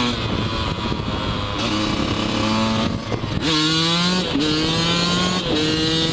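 Yamaha YZ125 two-stroke dirt bike engine running under way, at a low, uneven pitch at first, then revving up sharply about three seconds in and holding a steady higher pitch, with two brief dips in pitch.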